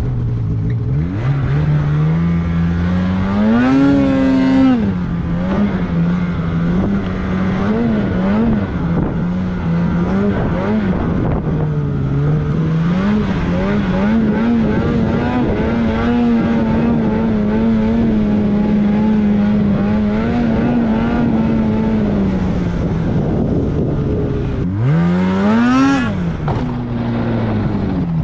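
Snowmobile engine running under the rider's throttle. Its pitch climbs sharply to a peak about four seconds in and again near the end, wavers up and down in between, and holds higher and steadier for several seconds in the middle.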